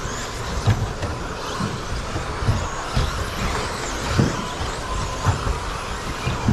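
1/10-scale electric RC stadium trucks with 13.5-turn brushless motors racing on an indoor carpet track. Motors and tyres make a continuous whir, broken by irregular low thumps about once a second.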